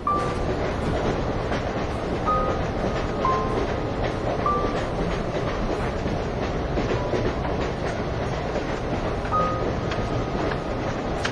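Train running: a steady rumble with faint clicks of the wheels and a few short, high squeaks now and then.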